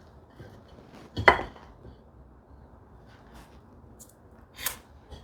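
Two light clinks of a small metal hand tool knocking against a wooden workbench, the louder about a second in and a weaker one near the end, over faint shop room tone.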